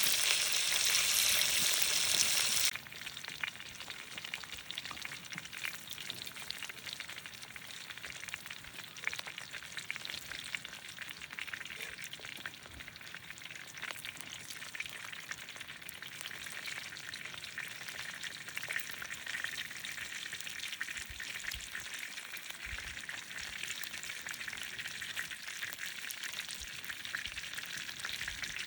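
Food frying in a pan over a campfire: a steady sizzle with fine crackles, loud at first and then dropping suddenly to a quieter sizzle about three seconds in.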